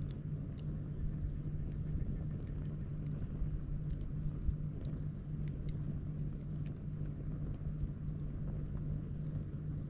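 Wood campfire crackling, with scattered sharp pops and snaps over a steady low hum and rumble.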